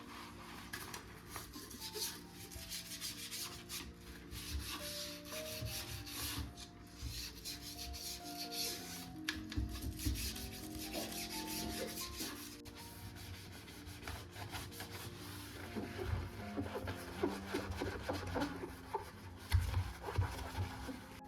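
Repeated scrubbing strokes on a surface, most intense in the first half, over soft background music with held notes.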